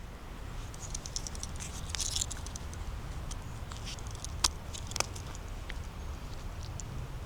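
Footsteps crackling through leaf litter and twigs on the forest floor, with two sharper snaps about four and a half and five seconds in.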